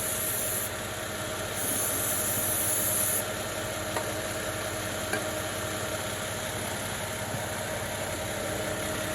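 Volvo XC90 engine idling steadily while brake cleaner is sprayed from an aerosol can in two hissing bursts, the second ending about three seconds in.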